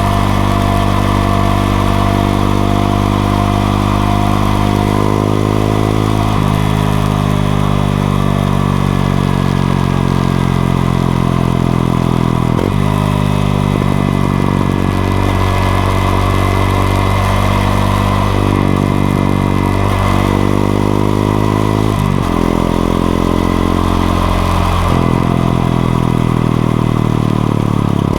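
Honda XRE 190's single-cylinder engine under way on the motorcycle. Its pitch climbs, then drops suddenly as the gears change, several times over.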